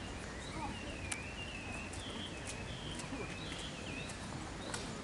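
Small birds chirping: repeated short, high calls over a steady low background noise, with a few sharp ticks.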